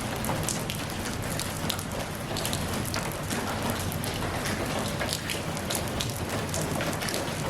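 Steady rain falling, with many individual drops striking close by as sharp little taps over the even hiss of the downpour.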